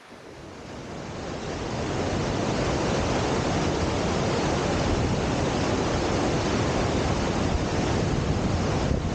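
Rushing water of the Cauldron Snout cascade on the River Tees, a steady roar mixed with wind buffeting the microphone. It swells up over the first two seconds, then holds steady.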